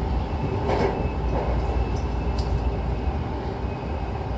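Hankyu commuter train running between stations, heard from inside the car: a steady low rumble of wheels on track, with a few faint clicks.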